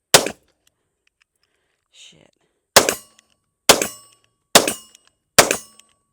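Hi-Point YC9 9mm pistol firing five shots: one just after the start, then four evenly spaced shots a little under a second apart in the second half, each with a short ring after it.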